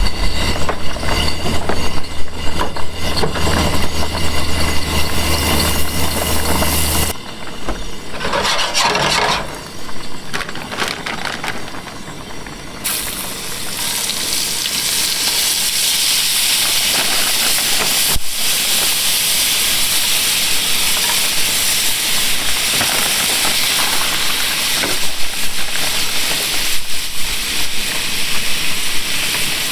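Seafood sizzling in a hot pan on a propane camp stove: a steady, even sizzle that starts about 13 seconds in and keeps going. Before it there is a low steady rumble for the first several seconds.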